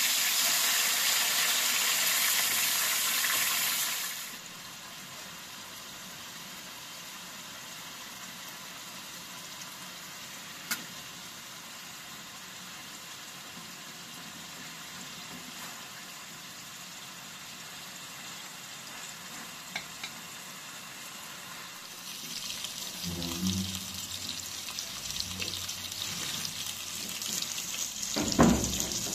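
Tomato slices frying in hot oil in a pan, sizzling: loud for the first four seconds, then dropping suddenly to a faint steady sizzle, and crackling more strongly again over the last several seconds. A few clicks and a sharp knock near the end come from a metal fork working the slices in the pan.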